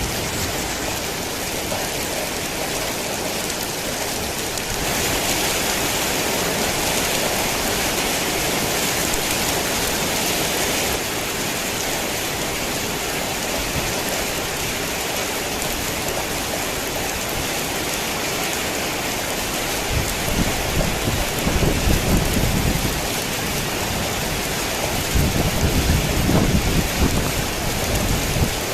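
Heavy rain falling steadily, growing heavier for about six seconds a few seconds in. In the second half come two low rolls of thunder, each lasting a few seconds.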